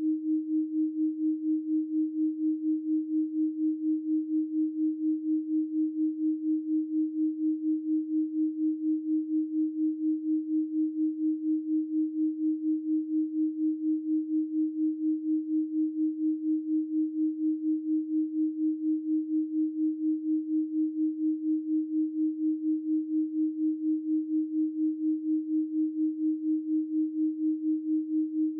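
Steady 312 Hz pure sine tone held unchanged. Its loudness wavers evenly, about four times a second.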